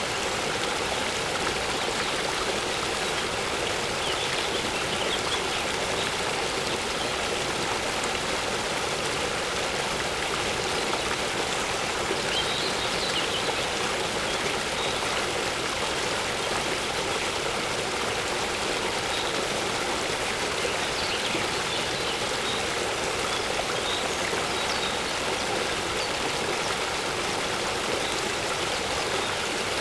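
Steady rushing and splashing of a waterfall's falling water, an even wash of noise with no change. A few faint high chirps of birds come through now and then.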